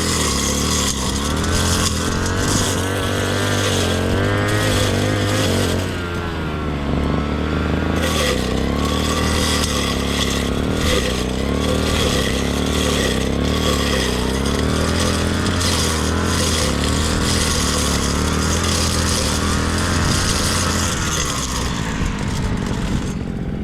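Small petrol engine of a grass-cutting machine running steadily, its pitch wavering up and down as the load changes, with a brief drop about six seconds in.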